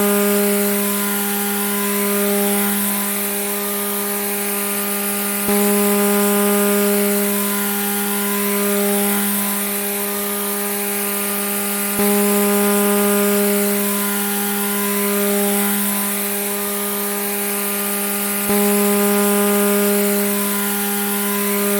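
Grass trimmer running steadily at high speed, a constant buzzing whine with a slight rise and fall in loudness. The same short stretch repeats about every six and a half seconds, each restart marked by a small click and a jump in loudness.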